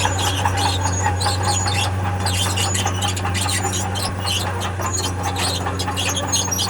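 Steel crawler tracks of heavy earthmoving machinery squealing and clanking over a steady diesel engine hum.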